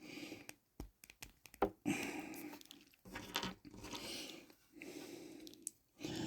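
Handling of a plastic action figure: scattered small clicks and rustling as its hands are pulled off and swapped for weapon-holding hands.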